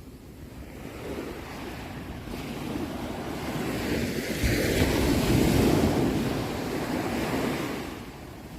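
Ocean waves breaking on a shore: one wave swells up, peaks about halfway through and washes back down.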